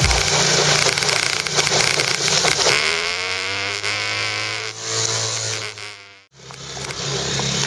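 Small 5 hp outboard motor running with a buzzing drone; its pitch sags slightly about three seconds in. The sound fades out about six seconds in, then the motor's hum comes back.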